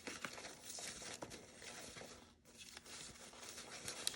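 Paper pieces rustling faintly as they are handled and sorted, with a few light taps.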